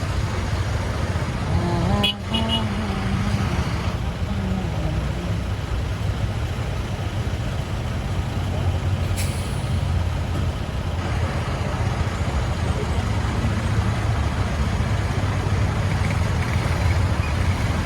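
Steady low rumble of a motorcycle ride on a busy highway, with engine and road noise and other traffic around. There is a short sharp sound about two seconds in and a brief hiss a little past the middle.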